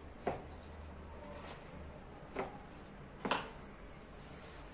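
A mixing utensil knocking against the bowl while stirring cake batter: three short sharp knocks, one just after the start, one a little past halfway and the loudest near the end, over faint stirring.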